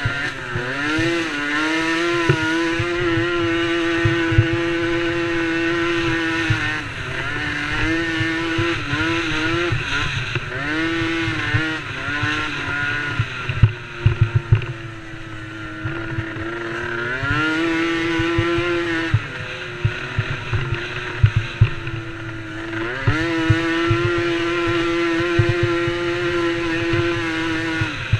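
DRR DRX90 youth racing quad's small engine revving hard: the pitch climbs, holds high for several seconds, drops off and climbs again, over and over as the throttle is opened and shut.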